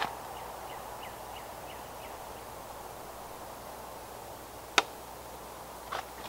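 Outdoor ambience in pine woods: a bird gives a run of about seven short, falling chirps over roughly two seconds against a steady background hiss. About three-quarters through comes a single sharp click, the loudest sound, with a couple of softer knocks near the end.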